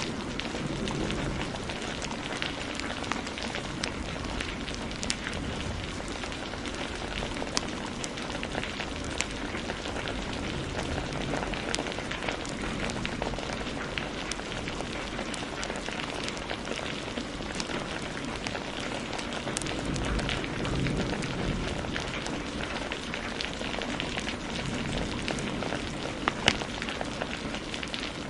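Heavy rain falling steadily together with a crackling fireplace, small sharp pops scattered throughout and one louder pop near the end.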